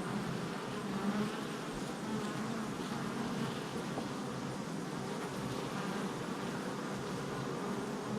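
Honey bees buzzing steadily at a hive entrance, many wingbeats overlapping into a dense, wavering hum as worker bees fly in and out.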